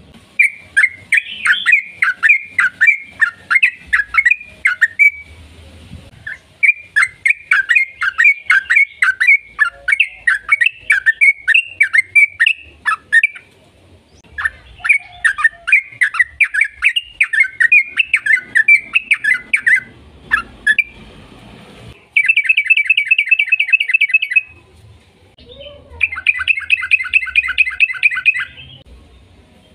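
Yellow-vented bulbul (trucukan) singing long, rapid runs of loud chirping notes, several notes a second, in three extended phrases with short gaps. Near the end come two shorter, very fast rattling trills.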